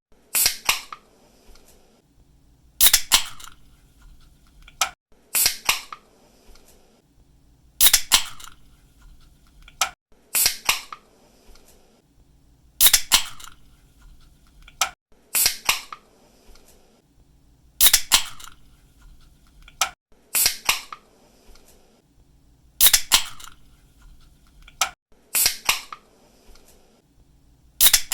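Pull-tab aluminium drink can being cracked open again and again, about once every two and a half seconds. Each opening is a quick double snap of the tab, followed by a short hiss of escaping gas.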